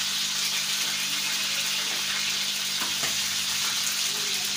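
Chicken pieces frying in ghee on a flat iron tawa: a steady sizzle, with a few light scrapes of a metal spatula turning the pieces.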